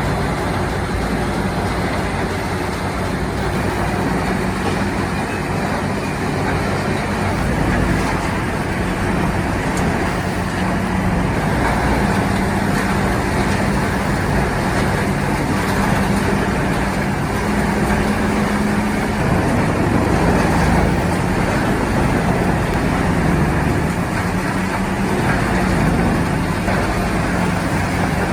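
Heavy diesel land-clearing machinery running steadily under load: a continuous low engine drone under dense mechanical noise.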